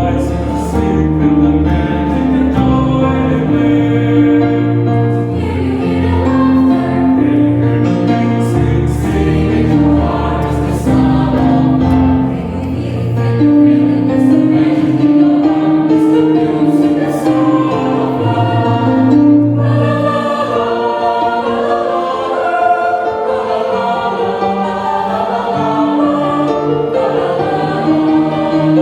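Church choir singing a Christmas hymn in several parts, with sustained low notes beneath the voices.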